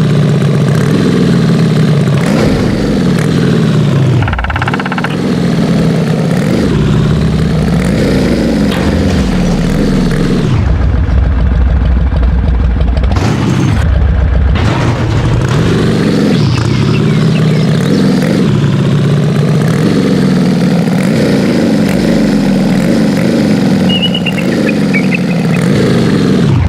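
Large 4x4 truck engine revving up and down again and again, with a lower, steadier rumble for a few seconds near the middle.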